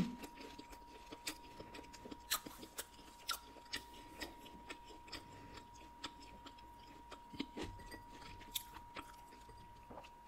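Close-miked chewing of a mouthful of pizza with the mouth closed: soft, irregular, wet mouth clicks and smacks. A short louder mouth sound comes right at the start.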